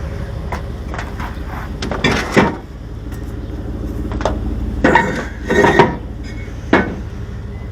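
Metal clanking four or five times, a few loud ringing knocks spread over several seconds, over a vehicle engine running steadily.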